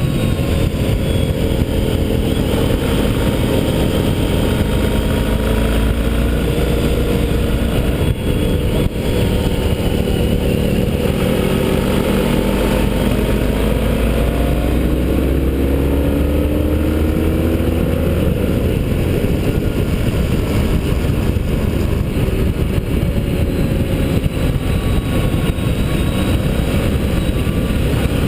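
Motorcycle engine at track pace, its pitch rising and falling repeatedly as it accelerates and backs off, over a constant low rushing noise.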